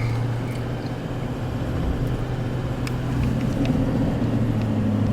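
Truck driving at road speed while towing a car on a trailer, heard from inside the cab: a steady engine drone with road and tyre noise.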